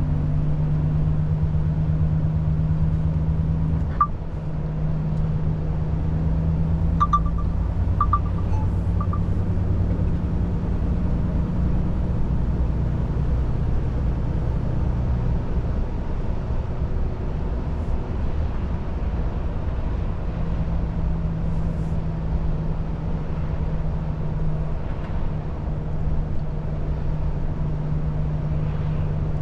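Volvo FH 500 truck's 13-litre straight-six diesel running on the move, a steady low drone whose note drops away a few seconds in and comes back strongly about two-thirds through. A few faint short clicks are heard near the start.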